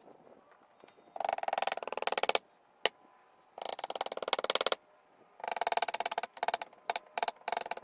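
Rapid, evenly spaced clicking in bursts of about a second each, four times. A single sharp click falls between the first two bursts.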